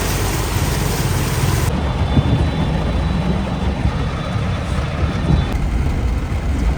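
Loud, steady road vehicle noise with a heavy low rumble, changing abruptly twice.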